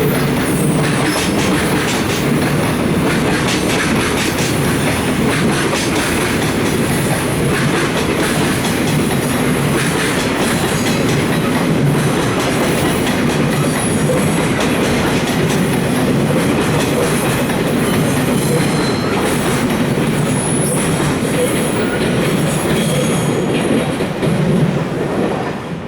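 Container flatcars of a freight train rolling past, their wheels clattering steadily over rail joints, with a few brief high wheel squeals. The sound falls away near the end as the tail of the train goes by.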